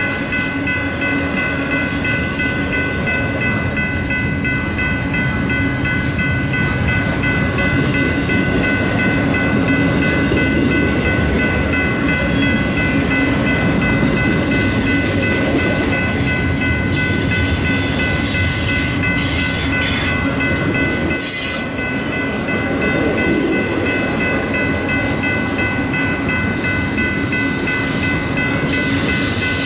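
Double-stack intermodal freight train rolling past: steady rumble and clatter of well-car wheels on the rails, with a steady high ringing held over it.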